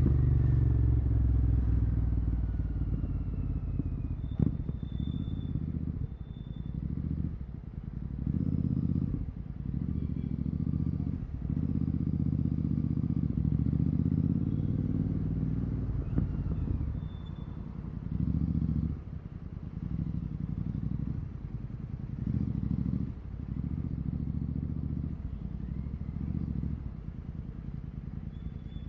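Royal Enfield Continental GT 650's parallel-twin engine through a Red Rooster aftermarket exhaust with the dB killer removed, riding along: the exhaust note swells and drops again and again as the throttle is opened and closed, with a sharp click about four seconds in.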